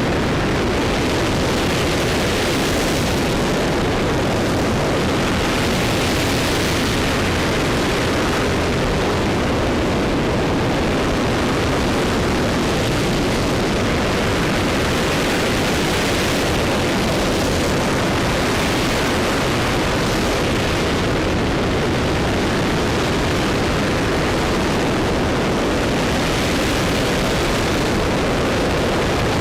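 RS-25 liquid-hydrogen rocket engine firing steadily at a constant loud level, a dense rushing noise with slow swells in the upper hiss.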